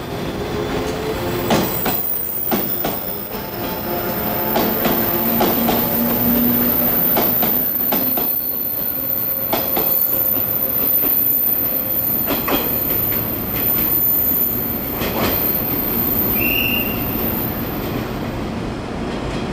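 JR 415 series electric multiple unit pulling out and passing close by, its wheels clicking irregularly over rail joints and points. The clicks thin out and the sound trails off a little near the end as the last car moves away.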